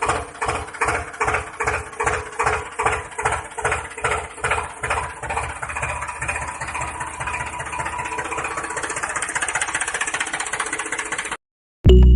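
Small engine of a homemade mini tractor running with an even pulsing beat that quickens over the first few seconds and then holds steady at a faster pace. It cuts off abruptly near the end.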